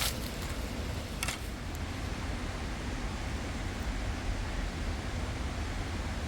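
Steady rushing noise with a low rumble underneath, and two short clicks about a second apart near the start.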